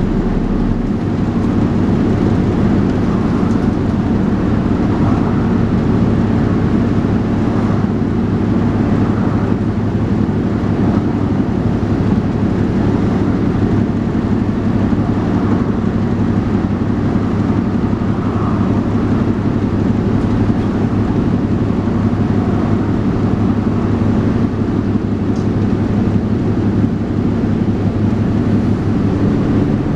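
Dennis Trident 2 double-decker bus engine and drivetrain running at a steady, unchanging pitch.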